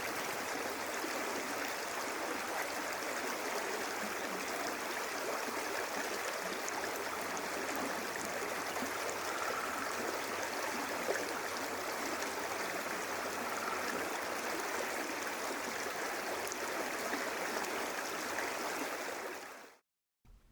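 Rushing river water, a steady, even flow that fades out near the end.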